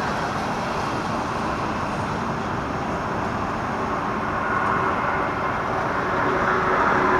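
Airbus A380's jet engines on approach: a steady roar that slowly grows louder, with a faint engine whine coming in over the last couple of seconds.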